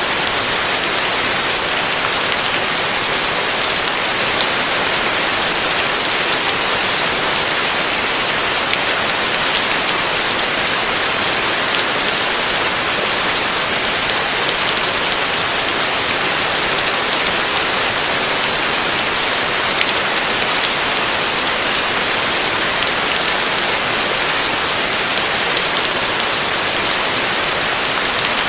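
Heavy rain falling steadily on a roof: a dense, even patter with no breaks.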